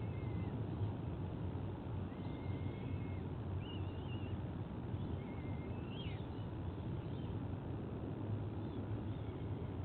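A steady low background rumble, with faint, short high bird chirps and whistles scattered through it, some flat and some briefly rising.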